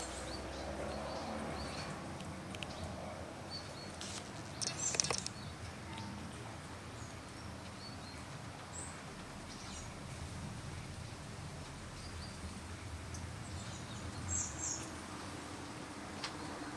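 Outdoor garden ambience: a steady low background hiss with a few short, high bird chirps, the clearest about five seconds in and again near the end.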